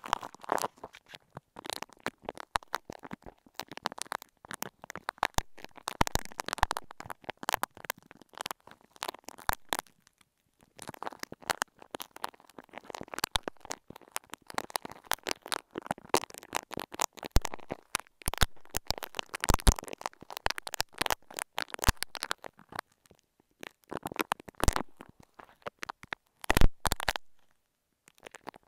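Granular, bead-studded clay being squeezed and worked right against an earphone microphone: dense, irregular crackling clicks, pausing briefly about ten seconds in and again a little past twenty seconds, with a louder cluster near the end.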